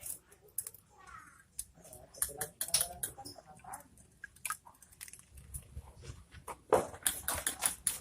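Common iora bathing: repeated short bursts of wet splashing and wing-fluttering in its water, loudest in a flurry about seven seconds in.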